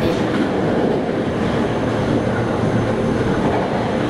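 Steady running noise of a 485-series electric train heard from inside the car at speed: wheels on rail and the rumble of the moving train.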